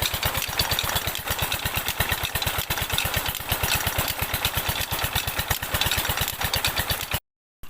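Diesel engine of a tube-well pump running steadily, its exhaust beating evenly at about eight beats a second; the sound cuts off suddenly near the end.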